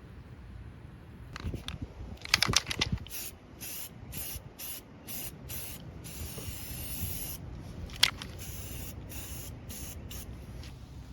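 Aerosol spray can hissing in a dozen or so short on-off bursts, typical of spraying paint over repaired bodywork. A cluster of sharp clicks comes about two and a half seconds in, and one sharp click about eight seconds in.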